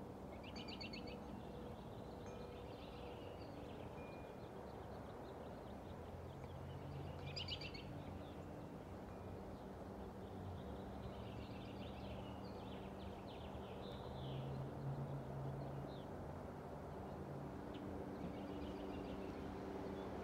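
Small birds calling over a steady low rumble: a quick trill about a second in, another about seven seconds in, and scattered chirps in between.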